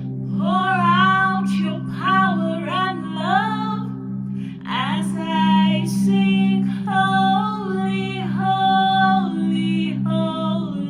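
Worship music: a woman singing a slow melody over a sustained low drone.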